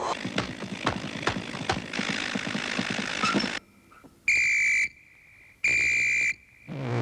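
Soundtrack sound effects: a dense mechanical clatter full of sharp clicks for about three and a half seconds, then two steady, high, alarm-like tones, each under a second long and a little over a second apart.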